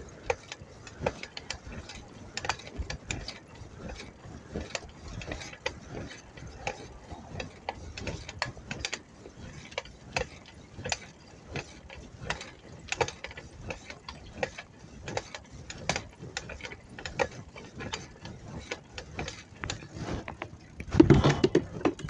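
Bicycle freewheel and chain clicking and rattling as the bike rides, a run of irregular sharp ticks. A louder burst of sound comes about a second before the end.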